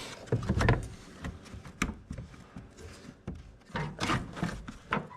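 Irregular clicks, knocks and scraping of hand tools and a hand working against the plastic and metal behind a car's tail light, while a tail-light nut is reached and loosened; the busiest handling comes just under a second in and again around four seconds in.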